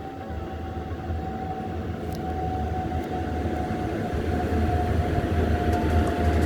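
A train hauled by twin WAP-7 electric locomotives approaches. A low rumble grows steadily louder, with a single steady whine that sinks slightly in pitch.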